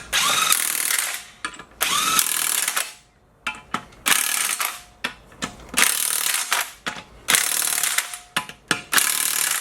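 Power wrench running in about six short bursts of about a second each, each starting with a rising whine, driving in Loctite-coated suspension bolts.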